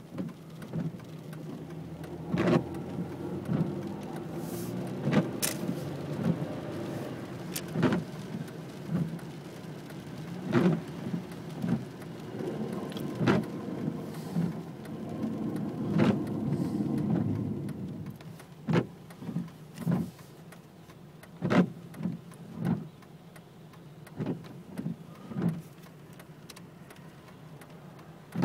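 Rain: large drops hitting a hard surface in an irregular patter of single sharp clicks, over a low steady rumble that fades about eighteen seconds in.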